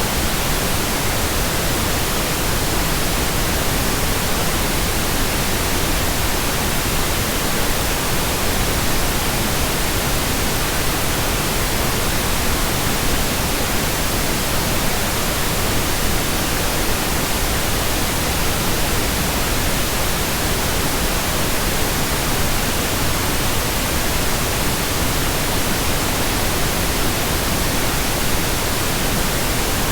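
Steady, unchanging pink noise: an even hiss spread across the whole range.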